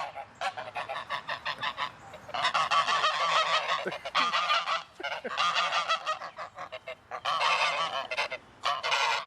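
A flock of geese honking: many rapid, overlapping calls coming in bursts with short breaks between them.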